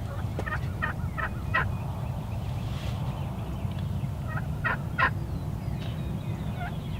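Turkey calls: a run of four short, sharp notes, then about three seconds later a run of three more, over a steady low rumble.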